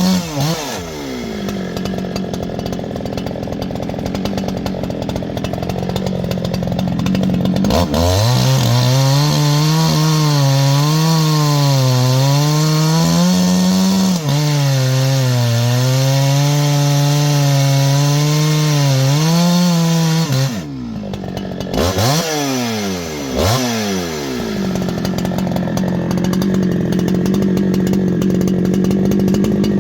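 G288 chainsaw, an 80–90cc class two-stroke, fitted with a tungsten carbide chain. It drops off high revs about half a second in and runs lower for several seconds. Near 8 s it is revved up and cuts into a wet log for about twelve seconds, its pitch wavering under load. It then drops back, is blipped twice, and runs steadily again.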